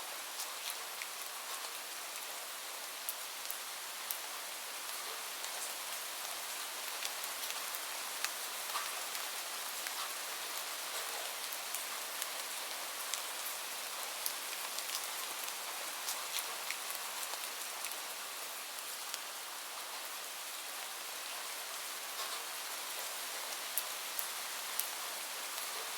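Steady gentle rain, an even hiss, with many small sharp ticks and crackles scattered through it.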